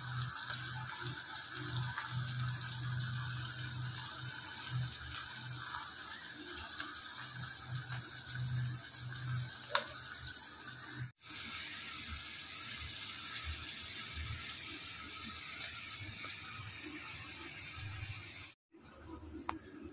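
Chopped vegetables frying in oil in a kadai: a steady sizzle with scattered scrapes and taps of a metal slotted spoon stirring them. The sound drops out briefly twice.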